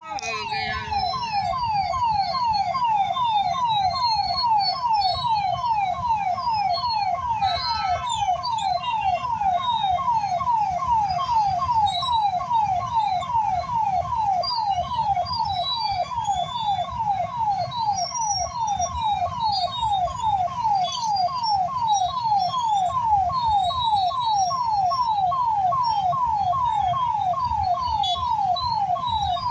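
Electronic warning alarm sounding over and over, each tone sweeping downward, about two a second and unchanging throughout, over a low rumble of background noise.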